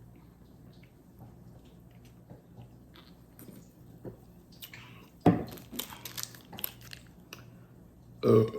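A person drinking water in small sips and swallows, with a sudden louder knock about five seconds in. Near the end comes a short, loud burp.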